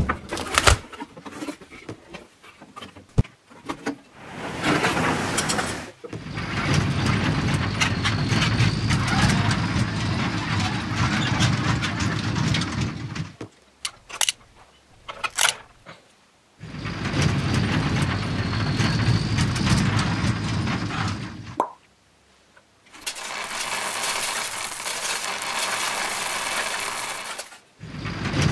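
Toy vehicle running in four stretches of several seconds with short gaps between, a steady mechanical engine-like sound with a faint high whine, after a few seconds of scattered clicks and knocks of the toy being handled.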